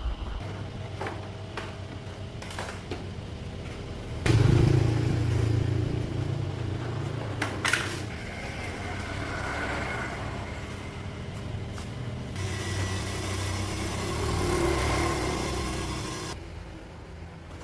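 An engine running, becoming sharply louder about four seconds in and then rising and falling in speed, with a few clicks.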